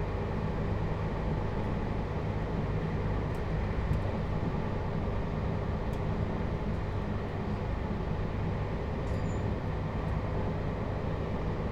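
Interior running noise of a JR Hokkaido 721 series electric motor car with Toshiba GTO inverter control. It is a steady rumble of wheels and running gear at an even speed, with a few faint clicks.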